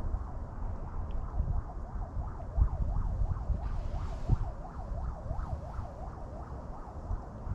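Wind buffeting the microphone in low rumbles, with a thin warbling tone that rises and falls two or three times a second.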